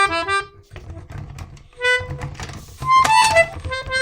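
A free-reed instrument playing short chords, then a few held single notes, with a loud busy phrase about three seconds in. Clicks and low thumps fall between the notes.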